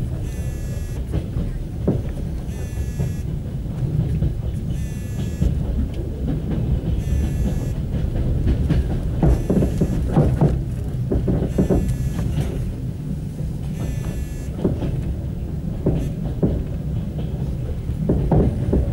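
Passenger train carriage running over the station tracks, heard from inside: a steady low rumble with wheels knocking over rail joints and points. A high-pitched tone sounds about every two seconds, each time for about half a second.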